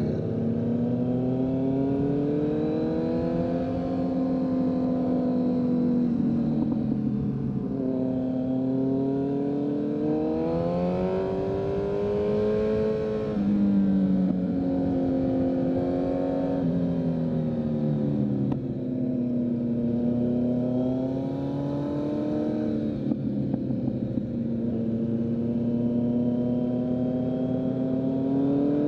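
2023 Kawasaki Z900's inline-four engine through a full Leo Vince exhaust, its note climbing with the revs under acceleration and dropping back several times as the rider shifts gears and eases off.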